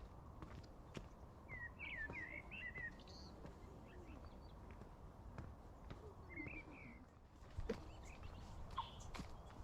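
Small birds twittering: two short runs of quick chirps, over a low, steady outdoor noise with a few faint clicks.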